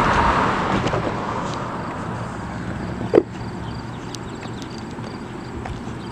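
A car passing on the road, its tyre noise fading away over the first couple of seconds. A single sharp knock about three seconds in, then faint footsteps.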